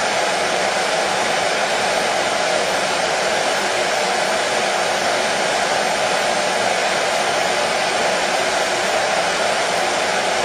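Electric hair dryer running continuously, a steady rushing noise with an even hum that does not change in pitch or level.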